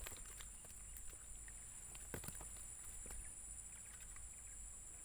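Steady high-pitched insect drone from the swamp, with scattered light clicks and taps.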